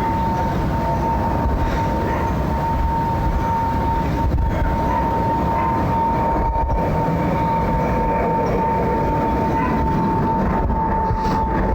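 Bombardier Challenger 350 business jet passing low overhead: the steady rushing roar of its twin Honeywell HTF7350 turbofans, with a clear, steady howl held over it.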